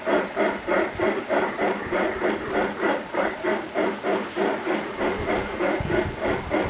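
Model steam locomotive on a garden railroad chuffing steadily, about four even chuffs a second.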